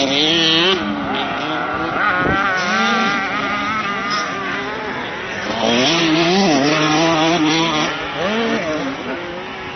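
Several motocross bike engines revving up and down as riders go round the track, the engine pitch rising and falling with each throttle change, loudest near the start and again about six seconds in.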